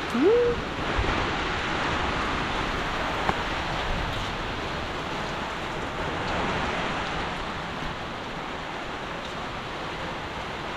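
Heavy rain falling steadily, a dense hiss. A brief rising tone sounds near the start.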